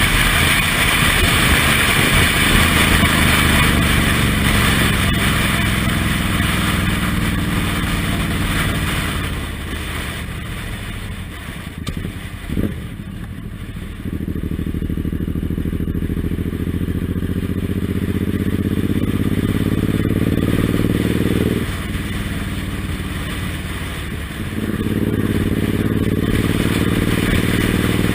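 Suzuki Intruder M1800R's big V-twin engine under way, its pitch climbing steadily as the bike accelerates. It drops back about three-quarters of the way through, then climbs again. Wind rush is heavy in the first few seconds.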